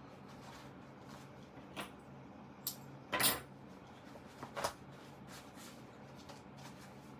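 Handling noises from a synthetic-leather Bible cover being taken apart by hand: a few short clicks and scrapes, the loudest a little after three seconds in, over a faint steady hum.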